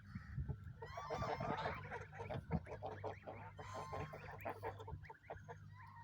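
A flock of geese honking and calling, with many short overlapping calls.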